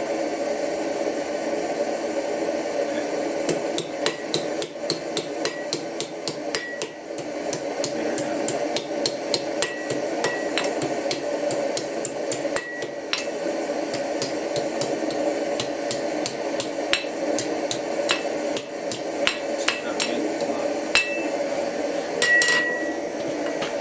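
Hammer striking hot steel on an anvil, bending over the end of a forged hook: runs of sharp blows, about three or four a second, broken by short pauses, with an occasional brief metallic ring. A steady hum runs underneath.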